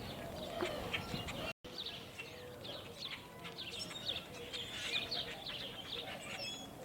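Several birds chirping, many short, high notes, often falling in pitch, scattered throughout. The sound cuts out completely for a moment about a second and a half in.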